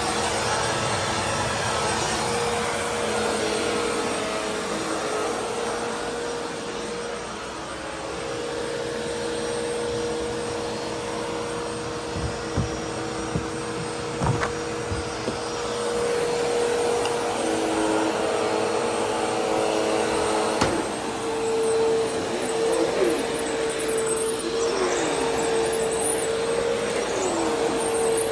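Vacuum cleaner running steadily, its motor giving a constant whine that shifts slightly in pitch. A few short knocks come midway.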